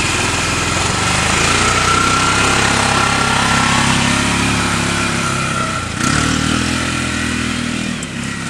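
Polaris Ranger utility vehicle's engine running as it drives off, with a step up in pitch about six seconds in, then slowly growing fainter.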